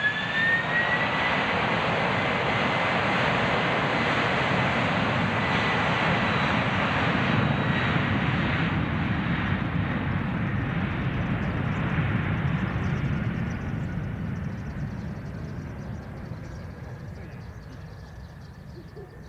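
Jet airliner's engines roaring, with a high fan whine that rises in pitch near the start. The noise holds for about thirteen seconds, then fades away steadily as the aircraft moves off.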